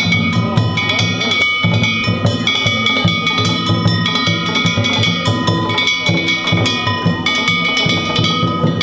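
Danjiri-bayashi festival music: drums beating a quick, steady rhythm under the continuous ringing of small bronze kane gongs.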